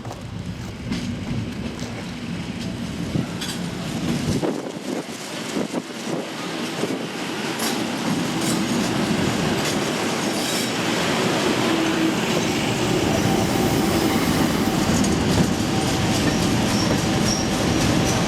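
Heritage diesel-hauled train running on the rails, its wheel and rail noise building up over several seconds, then cutting off suddenly at the end.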